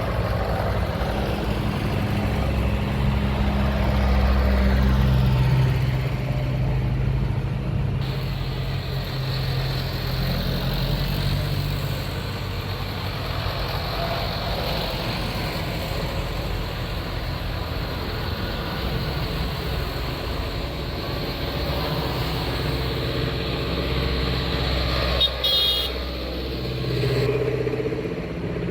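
Tractor engines running, louder about four to five seconds in and again near the end, with a brief horn toot a few seconds before the end.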